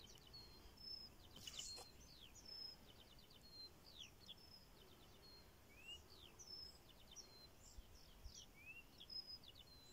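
Faint birdsong in open air: a small bird's short high chirps and whistles repeated throughout, with a couple of quick rising notes, over quiet background noise.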